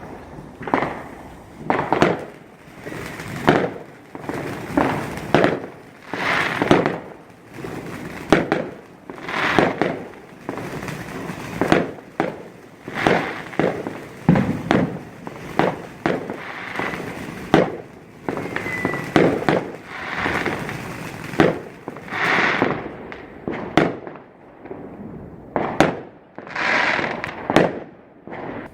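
Fireworks display: a continuous barrage of aerial shells bursting with loud bangs and crackle, one to two a second, each echoing briefly, with a short rising whistle about two-thirds of the way in.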